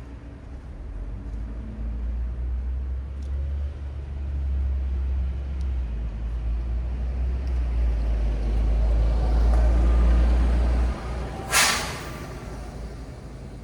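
A heavy vehicle's engine rumbles deep and grows louder as it passes, then drops away, followed near the end by one short, sharp hiss of an air brake releasing.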